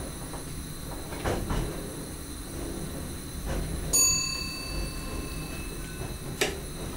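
SGM Sprinter electric train running on the rails, heard from inside the driver's cab: a steady low rumble with a few sharp clicks. About four seconds in, a single bell-like ding sounds and fades over a second or two.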